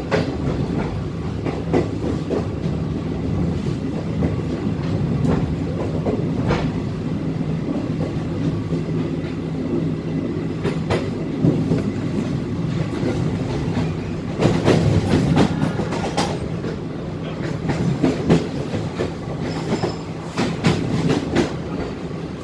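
Passenger train wheels running over the track at low speed, a steady low rumble and hum with irregular clicks and clacks over rail joints. The clatter gets heavier and denser in the second half, as over points.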